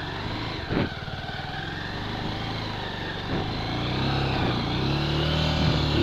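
Bajaj Pulsar 200 single-cylinder motorcycle engine running under the rider, with a brief rev about a second in. Its level and pitch then climb steadily over the last few seconds as the throttle opens.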